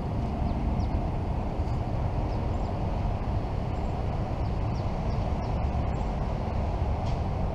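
Mercedes C300 running at a steady idle through its custom exhaust: an even low rumble with no revving.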